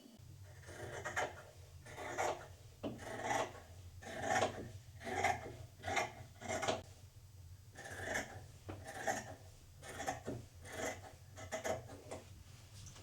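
Repeated rasping, scraping strokes, roughly one a second with a short pause about halfway, over a steady low hum.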